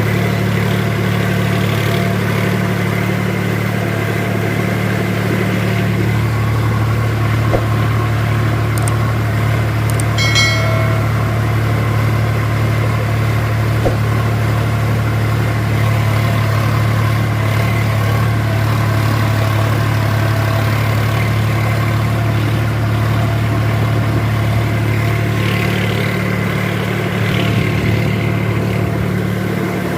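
Sonalika tractor's diesel engine running steadily at constant speed, with a brief high-pitched tone about ten seconds in.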